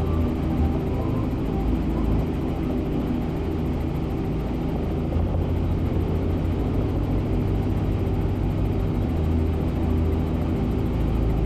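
Helicopter engine and rotor running in steady flight: a constant low drone with an even hum that does not change.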